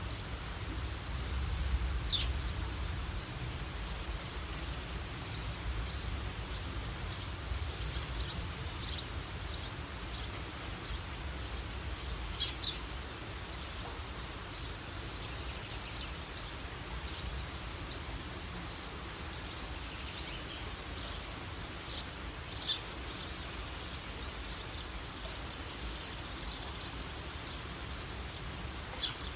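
Natural outdoor ambience: a steady hiss and low rumble. A bird gives a short, high, down-slurred call three times, about ten seconds apart, and the middle call is the loudest. Several brief bursts of rapid, very high insect trilling come and go.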